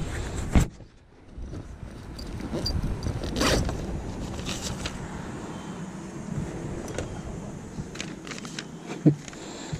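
A bag being opened and rummaged through: a zipper and rustling, with scattered small clicks and a short thump near the end.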